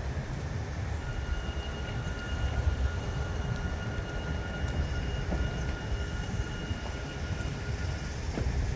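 Heavy diesel truck engine running with a steady low rumble, with a faint steady high whine from about a second in until near the end.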